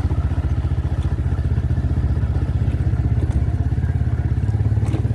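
Motorcycle engine running steadily while riding along, a low rapid pulsing.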